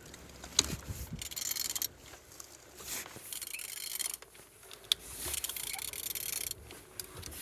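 A used engine being turned over by hand, with rubbing and scraping noise in spells of about a second and a few sharp clicks. The engine turns freely.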